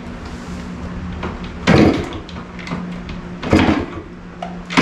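Kickstarter of a 1974 Yamaha DT100 single-cylinder two-stroke being kicked over: two heavy clunks about two seconds apart. The engine catches right at the end, helped by a little spray, since the carburetor has not yet been cleaned.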